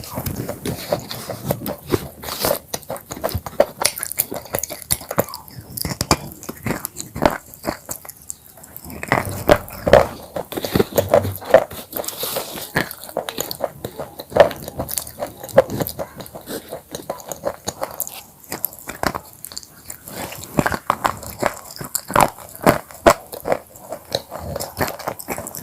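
Close-miked crunching of broken black chips as they are bitten and chewed: a dense, irregular run of sharp crisp cracks.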